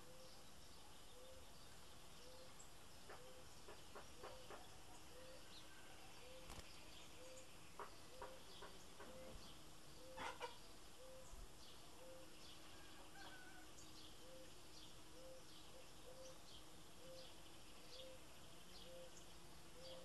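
Faint outdoor ambience with scattered short, high bird chirps, over a soft low note that repeats evenly about every 0.7 seconds.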